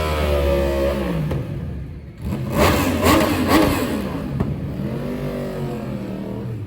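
Car engines revving: a rev falls away about a second in, then a louder burst of revving with the pitch swinging up and down, and another rev rising and falling near the end.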